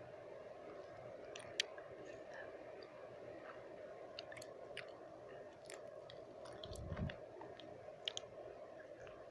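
Close-up wet mouth sounds: scattered sharp tongue and lip clicks over steady background white noise, with a soft low thump about seven seconds in.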